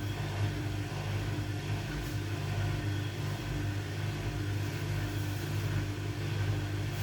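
Beko washing machine running with a steady low motor hum, and a higher tone over it that comes and goes about every two-thirds of a second.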